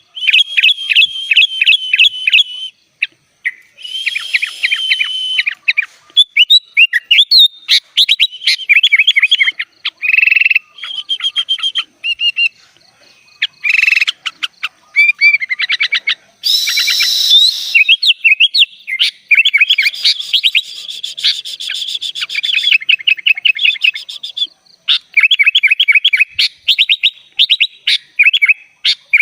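Sooty-headed bulbul (kutilang) singing a long, varied song of rapid chattering trills and whistled phrases, broken by short pauses, with one short harsh burst about halfway through. The song is 'full isian', laced with phrases borrowed from other songbirds.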